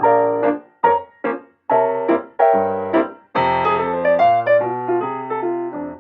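Background piano music: short detached notes and chords in brief phrases, then a longer held chord that fades away near the end.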